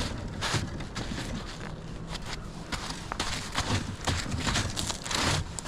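Footsteps, a run of irregular steps, with an engine idling underneath.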